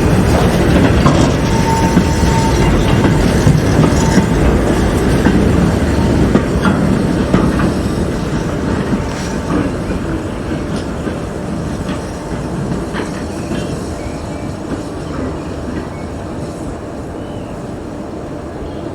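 A heritage train rolling past on jointed track, its wheels clicking over the rail joints, with a thin wheel squeal in the first few seconds. The sound fades steadily as the train draws away.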